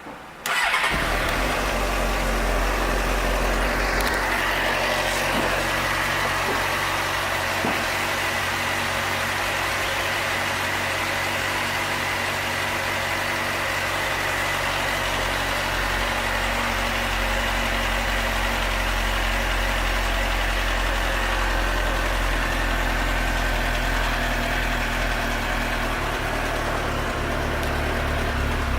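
2005 Suzuki GSX-R600's inline-four engine starting about half a second in, then idling steadily.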